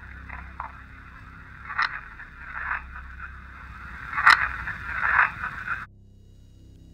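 Irregular scraping and crackling noises with a couple of sharp clicks, the loudest a bit past four seconds in. They cut off suddenly near the end, leaving only a faint low hum.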